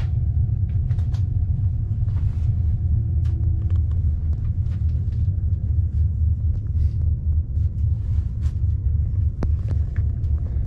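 Steady low rumble of a passenger train running at speed, heard from inside the carriage, with scattered small clicks and rattles.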